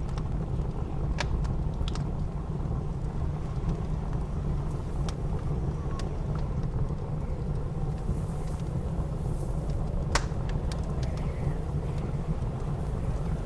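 Wood fire crackling, with scattered sharp pops (the loudest about ten seconds in), over a steady low rumble of blizzard wind.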